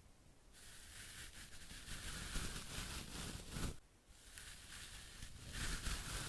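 ASMR skincare trigger sounds: hissing, scratchy strokes. One long stroke lasts about three seconds, a fainter one follows, and a stronger one starts near the end.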